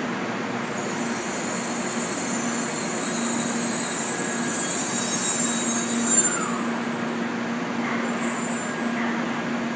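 700 series Shinkansen train rolling slowly along the platform and braking to a stop: a high hiss of the brakes and wheels builds, peaks and dies away about six and a half seconds in, over a steady low hum.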